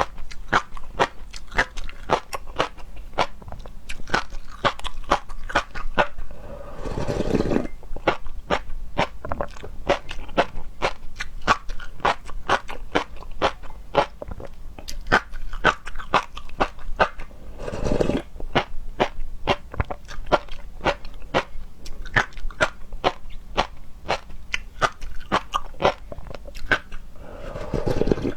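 Close-miked chewing and crunching of seafood: a quick, steady run of sharp crunches and mouth clicks, broken three times by a longer, lower noisy sound.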